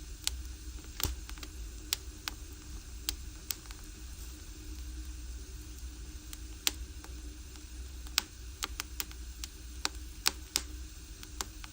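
Firewood burning in an agungi, a traditional Korean wood-fired furnace: irregular sharp crackles and pops over a low steady rumble.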